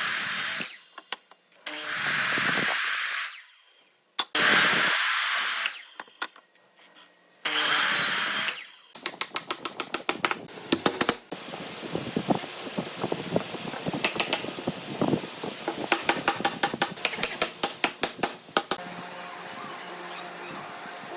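A power tool run in three short bursts of a second or two each, then a long run of rapid clicks and taps on wood.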